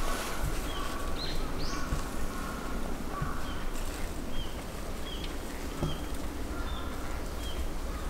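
Bird calls: short high chirps, one every half second to a second, over a steady low background rumble.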